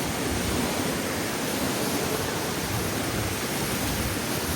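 Mina Sauk Falls rushing steadily, running full after rain.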